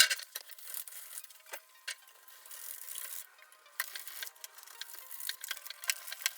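Sandpaper being rubbed by hand over the painted surface of a ceiling fan, irregular scratchy strokes, to strip the old gray paint smooth before repainting. A sharp click right at the start.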